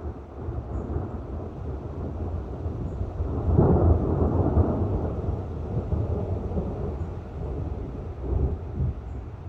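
Thunder rumbling: a low rumble that swells to its loudest about three and a half seconds in and keeps rumbling, with a smaller swell near the end.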